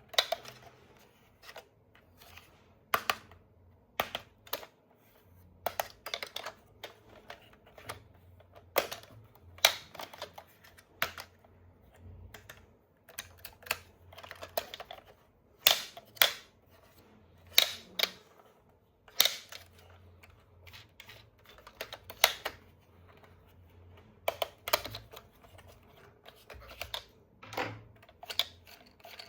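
Irregular clicks, taps and light rustles of hands handling plastic toys and packaging. The sharp knocks come singly or in short clusters, a few seconds apart.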